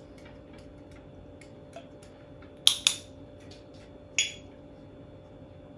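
A few sharp clicks: two close together about two and a half seconds in and a third about a second and a half later, with faint light taps in between.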